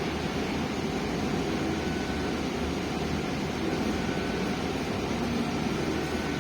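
Steady engine and road noise heard inside a MAZ 215 articulated city bus while it is driving, with faint tones coming and going in the drone.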